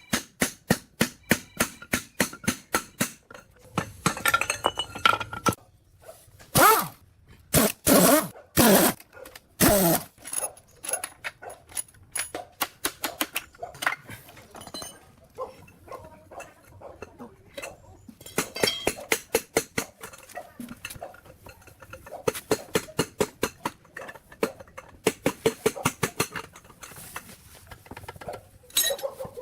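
Light metal tapping by hand tools on machine parts: quick runs of sharp clinks, often three or four a second. A few longer scraping strokes come in about a third of the way through.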